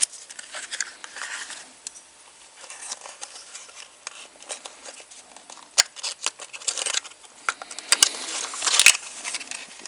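Spark-plug packaging being handled by hand: rustling with scattered clicks and taps, the loudest near the end.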